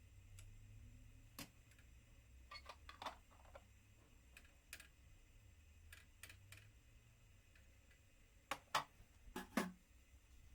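Scattered light clicks and taps, as of small objects being handled and set down, in a quiet small room. The loudest taps come in two quick pairs near the end.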